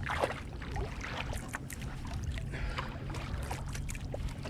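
Kayak paddling on calm water: paddle blades dipping and dripping in a run of small, irregular splashes over a steady low rumble.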